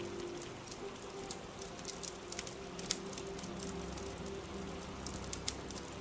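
Steady rain hissing, with scattered sharp pops and crackles from a crackling fire.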